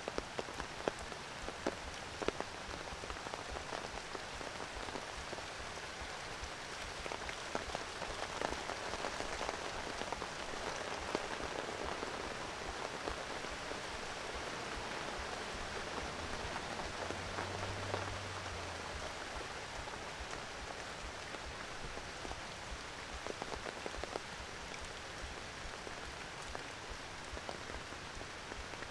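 Steady rain falling on dense tropical foliage and wet pavement, with many individual drops ticking close by.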